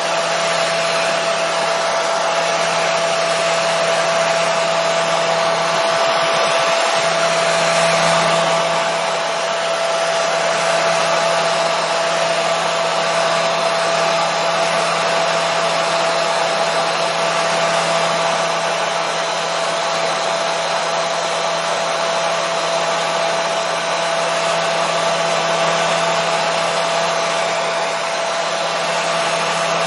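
Hair dryer running steadily at one setting: an even rush of blown air with a constant hum tone through it.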